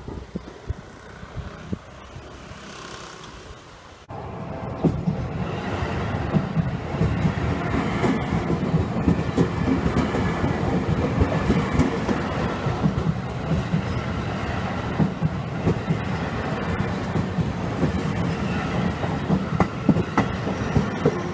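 Seibu 20000 series electric train passing close at a level crossing, wheels clicking over the rail joints. The train's noise starts abruptly about four seconds in, after quieter street traffic sound.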